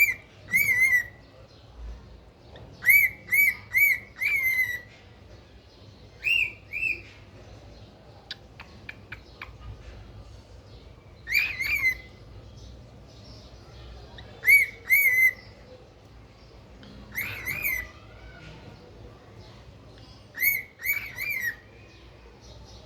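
Pet cockatiel calling: short, arched whistled chirps in quick groups of two to four, repeated every few seconds.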